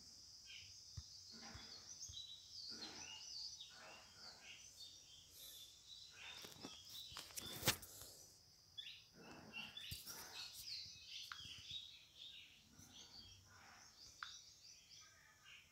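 Faint background sound with small birds chirping, and one sharp click about halfway through.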